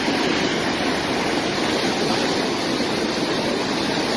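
Steady, loud rush of water from heavy rain and running rainwater, with no breaks or separate strikes.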